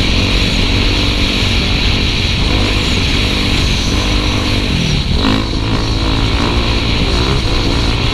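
Suzuki RM-Z450 dirt bike's four-stroke single-cylinder engine running under throttle, its pitch rising and falling. The engine note drops briefly about five seconds in, then climbs again.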